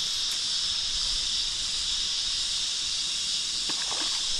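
Cicadas droning in a steady, unbroken high-pitched chorus.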